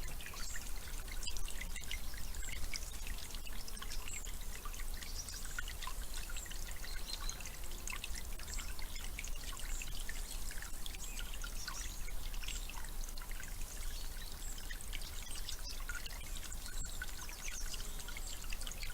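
Running water trickling and pouring steadily, with many small splashes, over a steady low hum.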